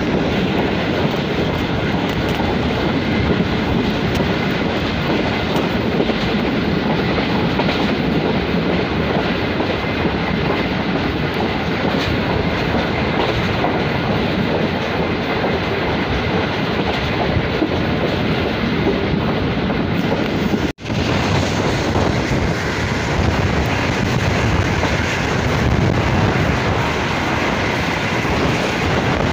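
Steady running noise of a passenger train's wheels on the rails at speed, heard from a coach window, with a momentary dropout about twenty seconds in.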